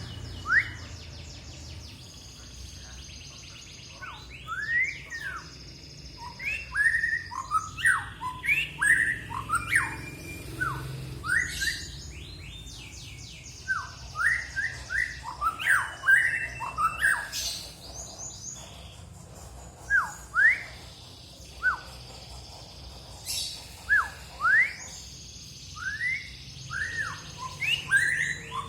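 A songbird singing a varied song of quick upward-sweeping whistled notes mixed with fast high trills, in phrases broken by short pauses.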